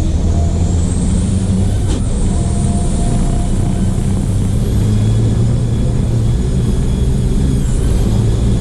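Copa Truck race truck's diesel engine running hard under race load, picked up by an onboard camera: a loud, steady deep drone with a faint high whine climbing slowly over the first few seconds. A short click about two seconds in.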